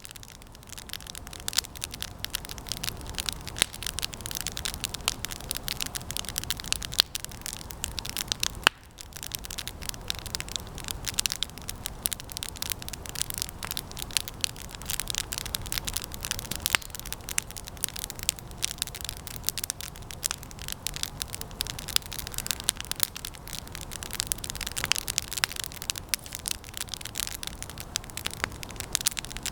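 Campfire of resinous pine branches burning, with dense, constant crackling and popping that drops away briefly about nine seconds in.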